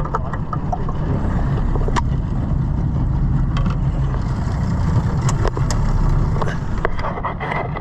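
A boat's motor running with a low, steady rumble, with scattered light clicks and knocks over it.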